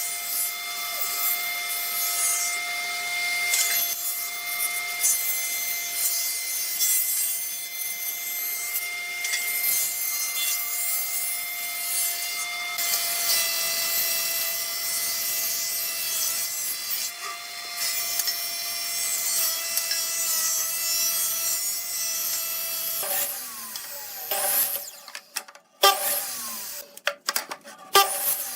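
An electric woodworking tool running with a steady motor whine and a high rasping hiss as it works wood. About 23 seconds in the whine stops and a few sharp knocks and clicks follow.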